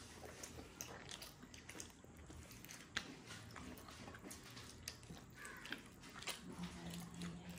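Close-up chewing with small wet mouth clicks and lip smacks, coming irregularly several times a second, with one sharper click about three seconds in.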